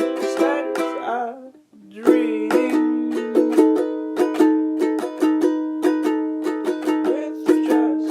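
Ukulele strummed in steady chords, about three strums a second, breaking off for a moment about one and a half seconds in before the strumming picks up again.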